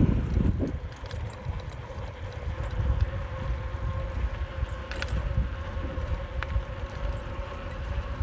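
Bicycle in motion: low rumble from wind on the microphone and tyres on the path, with a faint steady hum and a few scattered clicks.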